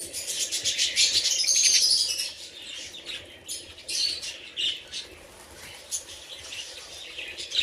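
A flock of budgerigars chirping and chattering, with rapid high chirps that are loudest in the first two seconds, then fewer, scattered calls.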